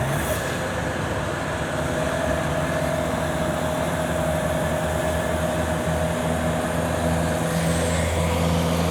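A motor engine running steadily with a low hum and a faint higher whine over a wash of noise, with no sudden events.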